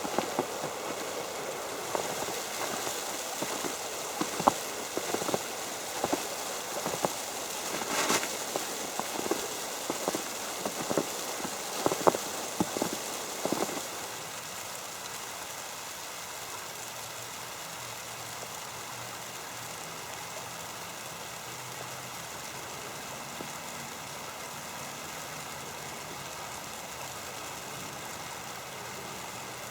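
Footsteps crunching through snow, about one to two steps a second, over a steady hiss of snow falling on an umbrella. The steps stop about halfway through, leaving only the soft steady hiss.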